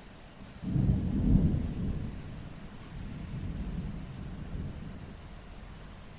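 Thunder rumbling over a steady hiss of rain. A sudden low rumble starts about a second in and is loudest for the next second, then rolls on in a second, weaker swell before fading away.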